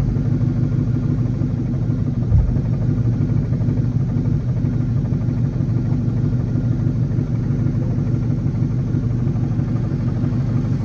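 Ford Mustang's 4.6 V8 idling loudly and unevenly with its exhaust blown off, a steady rumble, with one brief low thump about two and a half seconds in. Under it is a ticking tap and a loud noise that the owner puts down to a bad throwout bearing.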